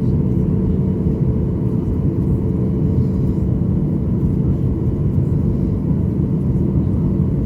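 Steady cabin noise inside a passenger airplane: a low rumble of engines and airflow with a constant droning hum.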